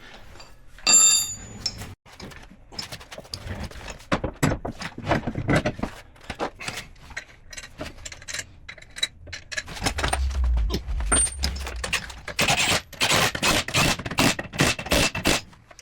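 Metal tools and parts clinking, knocking and rattling as they are handled, with one ringing metallic clink about a second in and a quick run of rattles near the end.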